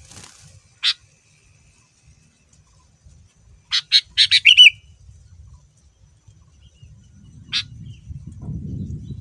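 Sooty-headed bulbul calling: a single sharp note, then a quick run of about six loud notes ending in a slurred note, then another single note. A low rumble comes in near the end.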